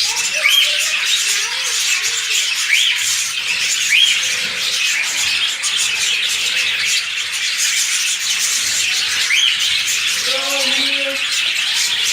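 A colony of lovebirds chattering continuously, a dense wash of high calls with short rising-and-falling squawks repeating about once a second.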